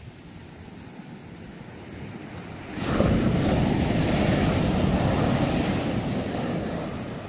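An ocean wave breaks about three seconds in, and its rush of surf swells and then fades over the next few seconds.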